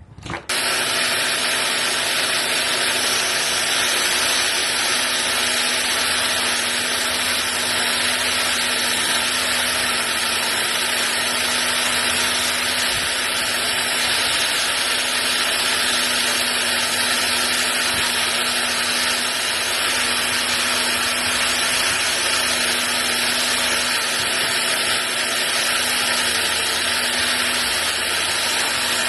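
Electric power tool switched on about half a second in and running steadily, a constant whirring noise with a steady hum.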